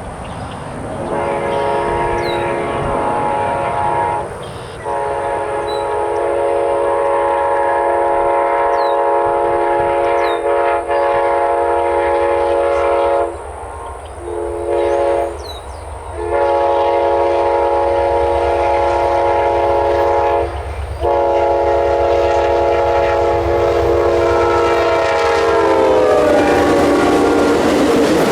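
BNSF freight locomotive's multi-chime air horn sounding the grade-crossing signal, long, long, short, long, over a low rumble. Near the end the chord drops in pitch as the locomotive passes, and the rush of the train's wheels takes over.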